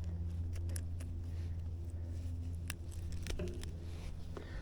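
A steady low hum with a scattering of sharp light clicks and rattles, typical of tackle and a caught bass being handled in a kayak.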